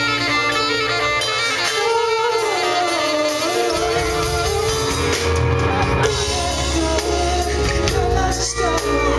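Live band music with some singing, in a large hall. The bass drops out for the first few seconds and comes back in about four seconds in.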